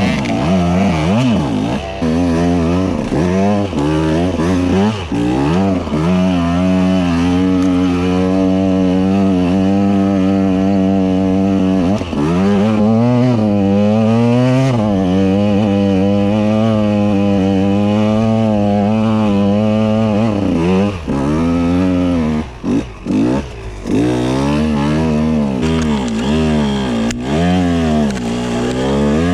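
KTM EXC 125 two-stroke enduro motorcycle engine running under throttle, its pitch rising and falling as it is revved on and off, with the throttle shut briefly a few times about two-thirds of the way through.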